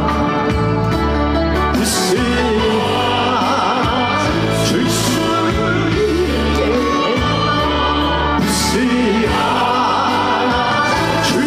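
Live trot song: a male singer's vibrato-laden vocal over a backing band with a steady, shifting bass line.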